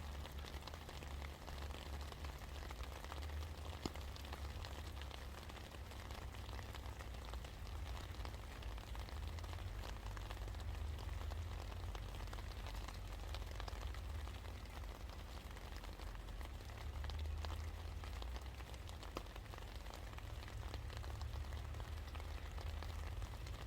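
Steady rain falling, many separate drops pattering with sharp little ticks. A steady low rumble runs underneath.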